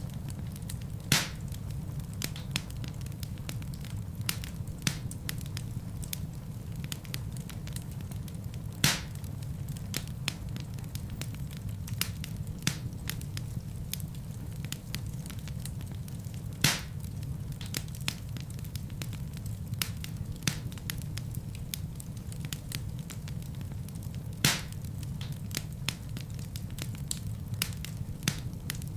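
Wood fire burning in a fireplace, with a steady low rumble of flame and constant small crackles from the logs. Four louder sharp pops stand out, spaced about eight seconds apart.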